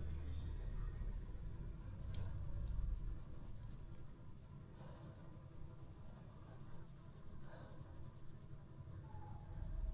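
Faint scratching and rubbing over a low rumble, with a couple of small clicks.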